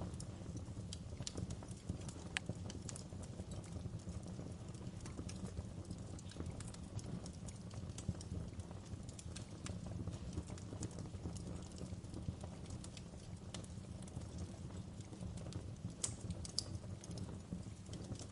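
Wood fire crackling in a fireplace: a steady low rumble of burning with irregular sharp snaps and pops throughout, a few louder snaps about two seconds in and near the end.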